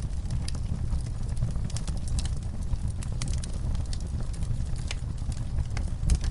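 Fire crackling in a fireplace: irregular sharp pops and snaps over a steady low rumble of burning.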